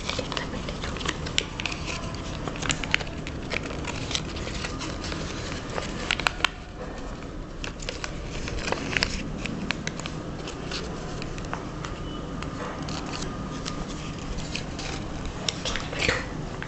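A sheet of origami paper being folded and creased by hand: scattered small crinkles, taps and scrapes of paper, over a faint steady hum.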